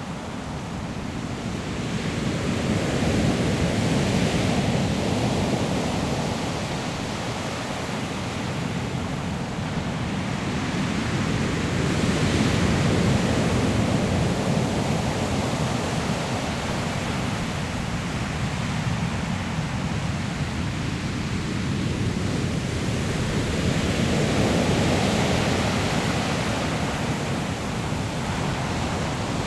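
Sea waves breaking on a pebble shore, a steady rush of surf that swells and eases in slow surges, three peaks over the span.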